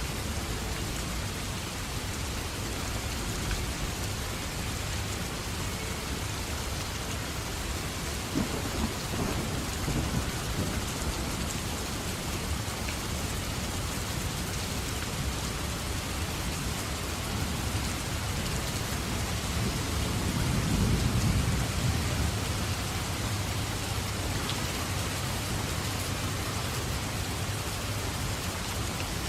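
Steady heavy rain falling, with thunder rumbling low twice, the louder roll about two-thirds of the way through.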